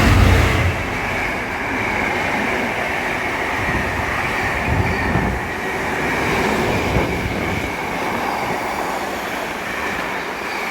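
Class 66 diesel locomotive passing, its low engine rumble dropping away within the first second, then its train of loaded container wagons rolling steadily past with wheel and rail noise.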